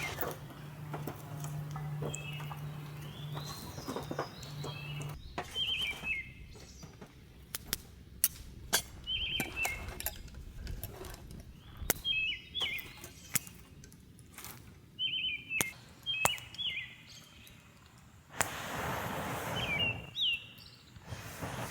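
Small birds chirping repeatedly in short, quick notes, mixed with scattered sharp clicks and snaps. About two seconds of hissing noise rise near the end.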